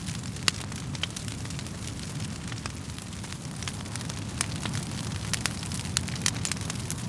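Wood fire burning in a fireplace: a steady low rumble of flames with irregular sharp crackles and pops from the burning wood, one louder pop about half a second in and a run of crackles in the latter half.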